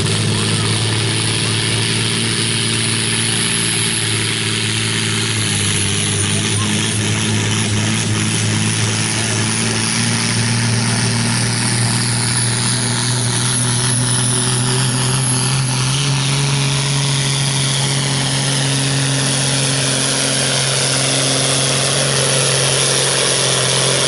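John Deere 4440's turbocharged six-cylinder diesel running hard under full load as it pulls the weight-transfer sled down the track. Its steady drone rises slightly in pitch about two-thirds of the way through, with a high whine gliding downward over it.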